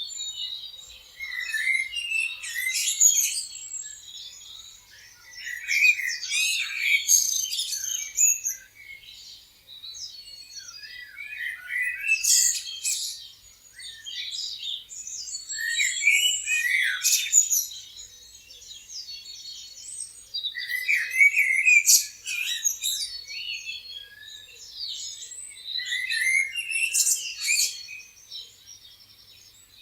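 Several songbirds chirping and singing together: quick, high-pitched chirps and trills that come in overlapping bursts every few seconds.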